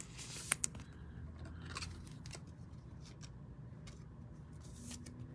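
Faint handling of trading cards: light clicks and rustles as cards are flipped and slid through the hands, with two sharper clicks about half a second in.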